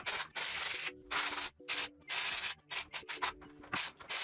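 Compressed air from an air blow gun hissing in a rapid series of short blasts, about two a second, blowing dust off a circuit board.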